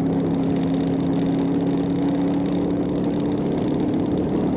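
Patrol car's engine running steadily at a constant speed, with road noise, heard from inside the cruiser.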